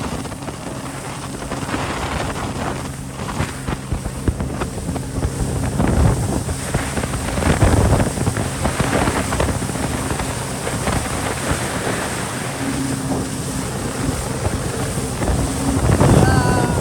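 Jet ski engine running under way, a steady drone under heavy wind buffeting on the microphone and rushing water, swelling in surges a few times.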